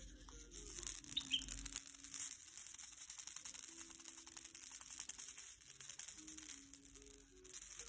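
A maraca shaken in a fast, continuous rattle that starts about half a second in and gets louder near the end.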